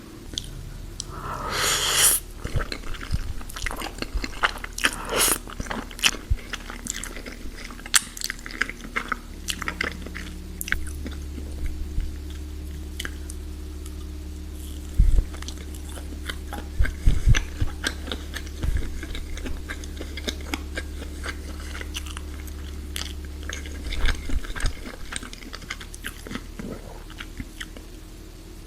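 Close-miked chewing and biting of food, with many short crisp crunches, the loudest about two seconds in.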